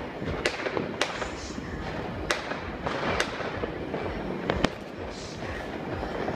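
Fireworks and firecrackers going off, with about five sharp bangs at irregular intervals, the loudest just after the middle, over a continuous din of more distant ones.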